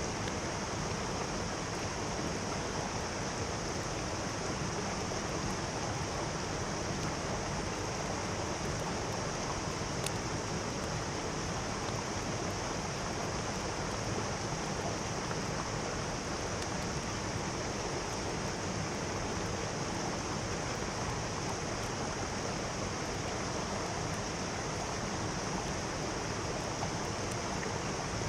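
Mountain stream rushing steadily, an even wash of flowing water with no breaks.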